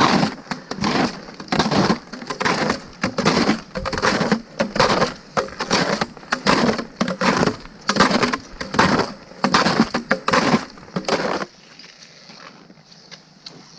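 Boot footsteps crunching in packed snow at a steady walking pace, about two steps a second, stopping about eleven and a half seconds in.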